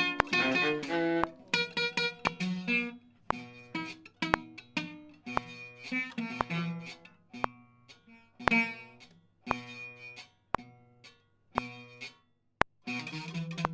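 Music played on a plucked string instrument like a guitar: single notes and short phrases, sparse with pauses in the middle and busier near the end.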